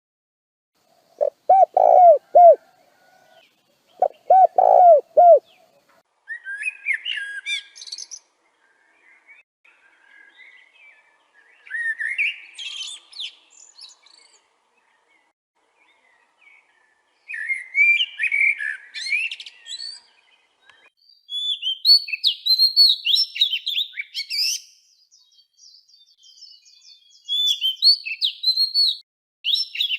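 Birds singing: two short groups of low, repeated notes in the first few seconds, then bouts of higher, quick chirping song phrases every few seconds.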